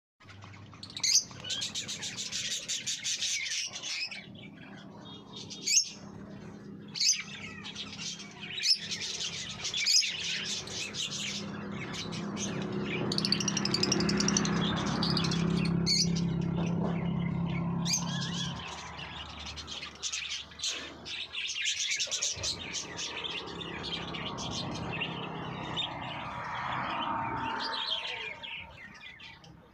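Many small cage birds chirping and squawking together, calls overlapping densely with sharper, louder squawks now and then. A low steady hum sits underneath for several seconds midway.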